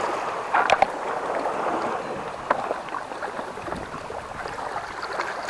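Sea water washing against shore rocks, a steady rush with a few light clicks.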